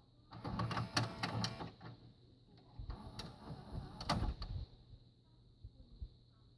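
VCR tape mechanism clicking and clattering in two bursts of a second or two each: the weird noise the machine makes when it is switched off with a tape loaded. A faint steady high whine runs underneath.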